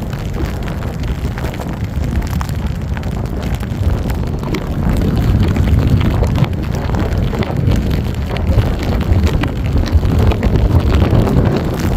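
Storm wind buffeting the microphone, a loud gusting rumble that grows stronger about five seconds in.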